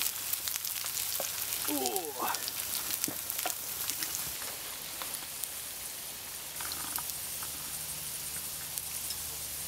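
Diced potatoes and ham sizzling in two frying pans over a wood fire, with a steady hiss, fine crackles and the scrape of a plastic spatula turning the food. About two-thirds through, the sound changes to hot water being poured from a kettle into a mug.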